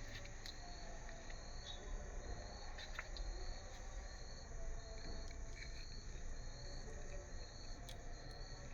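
Cricket chirping in an even rhythm, a short high-pitched chirp about every two-thirds of a second, with a few faint clicks.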